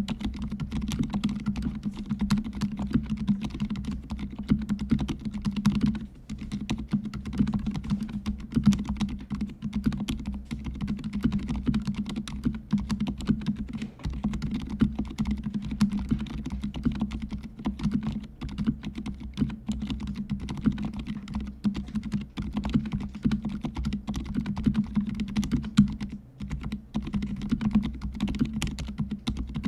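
Mechanical keyboard with fully lubricated silent red (low-noise linear) switches being typed on fast and continuously, giving dense, muted keystrokes with a low-pitched sound. Typing pauses briefly about six seconds in and again a few seconds before the end.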